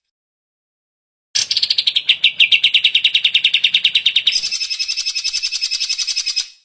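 Cucak ijo (green leafbird) singing a fast, excited trill: silent at first, then a rapid run of about ten notes a second that starts high and settles a little lower, switching about three seconds later to a higher, equally fast trill that ends just before the close.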